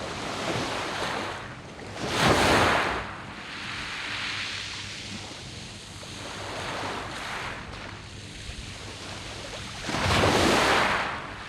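Sea waves breaking on a pebble beach: two waves crash, about two seconds in and again near the end, with the rush of the wash between them.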